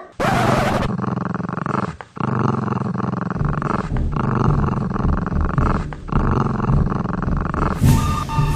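Dog growling, four long growls of about two seconds each with short breaks between, as a threatening sound effect. A swish and music come in near the end.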